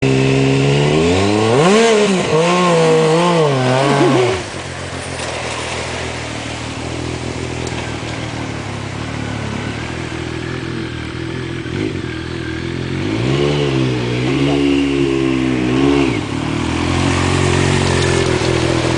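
Motorcycle engine revving up and down repeatedly, dropping to a steady idle, then revving again in a second bout about two-thirds of the way through.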